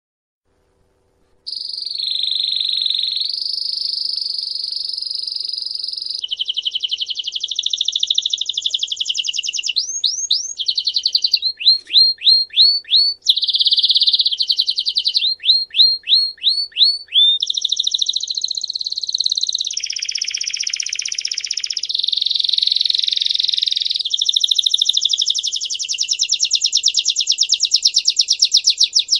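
A small songbird singing a long, continuous song of fast high trills that change every few seconds, broken by runs of quick repeated notes; it starts about a second and a half in.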